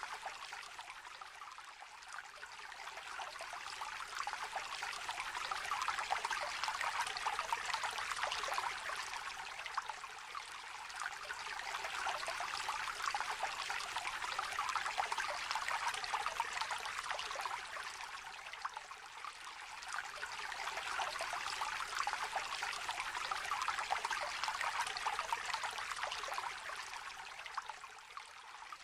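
A small river trickling and babbling, a steady rush of water that swells and eases every several seconds.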